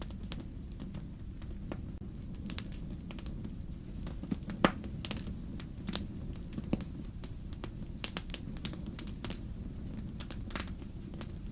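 Wood fire in a fireplace crackling, with irregular sharp pops over a low steady rumble. One louder pop comes about four and a half seconds in.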